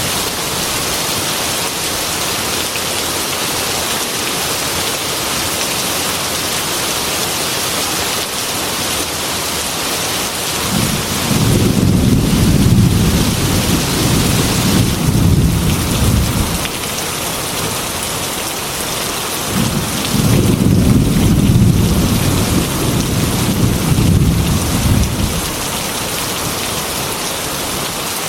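Heavy rain pattering steadily on a glass window, with two long rolls of thunder, one starting about a third of the way in and a second one later, each rumbling for about five seconds.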